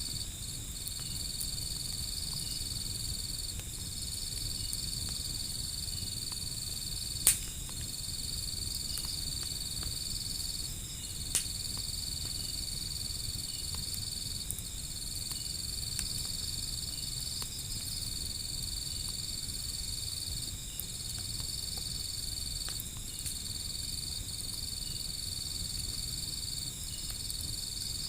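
Insects trilling steadily at a high pitch, breaking off briefly every second or two, over a low rumble. Two sharp pops from a wood fire stand out, about seven and eleven seconds in.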